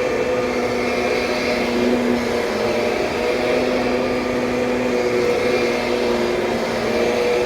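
Kirby Sentria upright vacuum cleaner running steadily, its motor hum wavering slightly in pitch.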